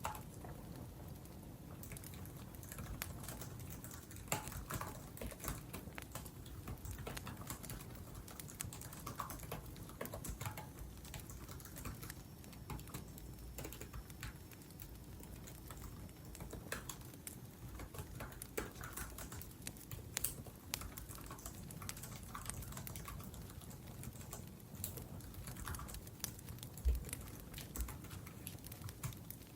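Typing on a laptop keyboard: quick, irregular key clicks with short pauses between runs.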